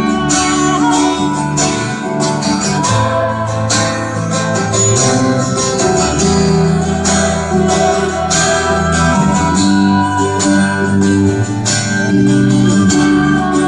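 Live band playing an instrumental passage of a pop-rock song, led by strummed guitars.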